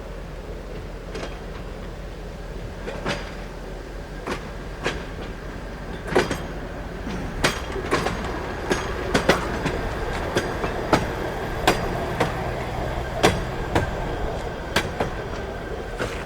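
Rail maintenance-of-way equipment, a tie crane and its rescue machines, rolling slowly on the track. Their wheels give irregular sharp clacks over the rail joints, which come louder and more often from about six seconds in, over a steady low engine hum.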